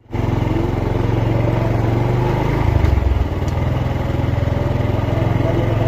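Motorcycle engine running steadily on the move, its note changing briefly about three seconds in.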